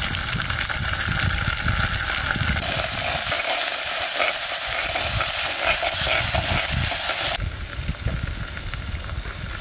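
Food frying and sizzling in a hot pan as it is stirred, a steady hiss with irregular low knocks beneath. The sizzle drops off suddenly a little past seven seconds in.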